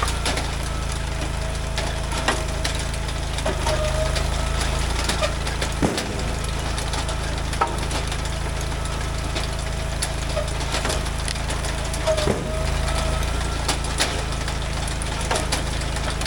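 Engine-driven hydraulic log splitter running steadily, with its pitch wavering as it cycles, and logs cracking and splitting apart with sharp knocks twice, about six and twelve seconds in.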